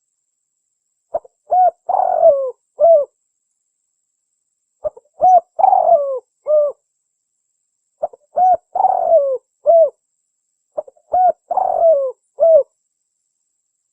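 Spotted dove (tekukur) cooing: four phrases, each of several short coos around a longer falling middle note, repeated about every three seconds with silence between.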